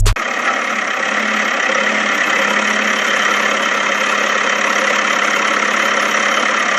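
Steady engine-like running noise at a constant level, starting abruptly.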